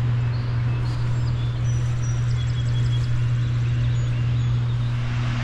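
A steady low hum, with faint short bird chirps scattered over it.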